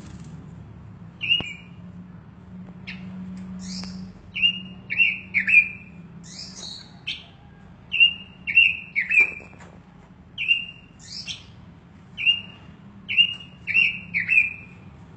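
Pekin robin (red-billed leiothrix) giving short, sharp chirps, often in quick runs of two or three, with fainter higher notes between them.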